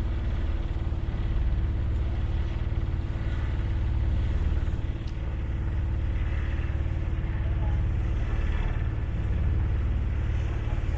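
Tour boat's engine running steadily: a low, even drone with a steady hum above it.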